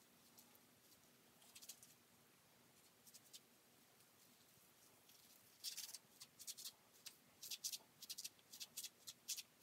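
Fingers working through short, wet, conditioned curly hair: faint crackling rustles, a few around two seconds in, then a quick irregular run of them over the last four seconds.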